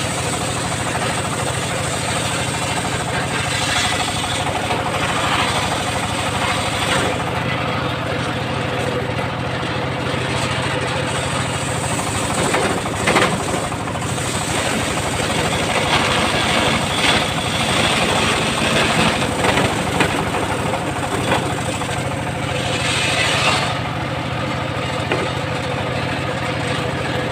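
Engine-driven homemade circular sawmill running with a steady hum, with several stretches of louder, hissing noise a few seconds long as the blade cuts through wood.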